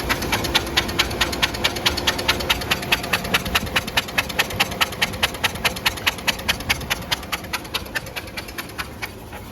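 Cub Cadet lawn tractor engine being turned over by its electric starter with the spark plug out. It makes an even, rapid chuffing at about four to five strokes a second without catching, and stops shortly before the end. The engine is being cranked to blow water-contaminated, milky oil and fuel out of it after it flipped.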